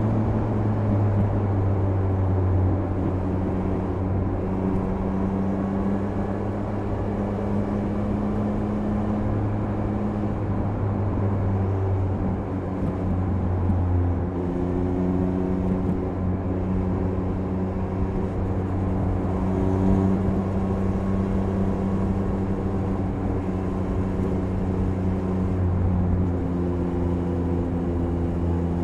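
Triumph Speed Triple 1050 RS motorcycle's inline three-cylinder engine running at a steady cruise on the expressway, over wind and road noise. Its note holds fairly even, shifting slightly in pitch a couple of times as the throttle changes.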